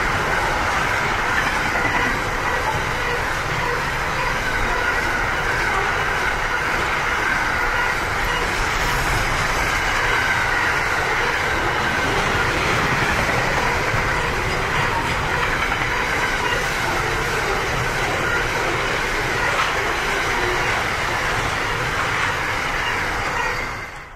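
Freight train container wagons rolling past close by: a steady rumble and clatter of steel wheels over the rails, with a wavering squeal from the wheels. The sound cuts off abruptly near the end.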